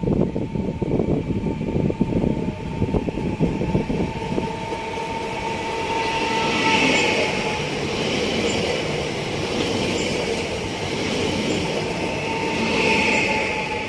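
PESA Elf electric multiple unit (class 22WEg) running in along a station platform: a steady rail rumble with a thin high whine that swells twice, about halfway through and near the end. Gusts of wind rumble on the microphone in the first few seconds.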